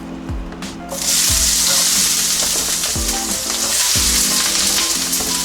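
Onions hitting hot oil in a sauté pan: a loud sizzle starts suddenly about a second in and carries on as they fry.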